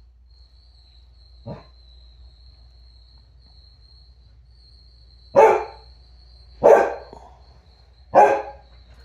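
Dog barking three times, each bark a second or so apart, with one fainter short sound a few seconds before the first.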